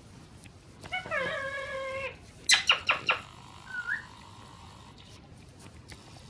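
A parrot vocalising: one held, pitched call about a second long, then a quick run of four or five sharp, loud squawks, then a short rising chirp.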